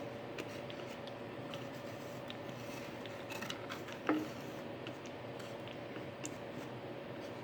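Small handling sounds at a workbench: light clicks and rubbing from the wooden box pieces and glue bottle being handled, with one sharper knock about four seconds in, over a faint steady hum.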